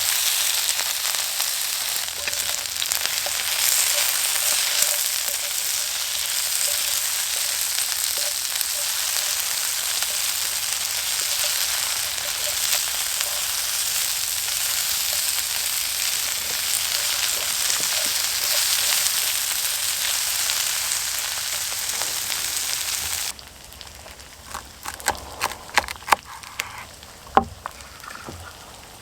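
Food sizzling steadily in a hot pan. About 23 seconds in the sizzle cuts off suddenly, leaving a quieter background with scattered sharp crackles and clicks and one louder knock near the end.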